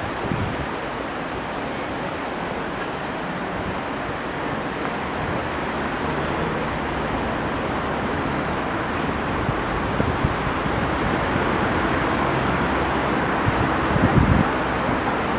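Steady aircraft noise heard from aboard a landing plane, engine and airflow together, slowly growing louder, with a few short low thumps, the last of them about a second before the end.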